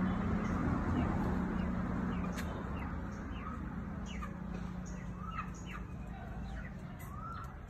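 Birds calling: many short, quick chirps falling in pitch, with a few longer arching calls toward the end. Under them a low rumble and hum fades away over the first couple of seconds.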